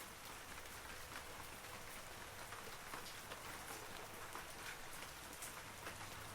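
Steady light rain falling on forest foliage, with a soft hiss and many separate drops tapping.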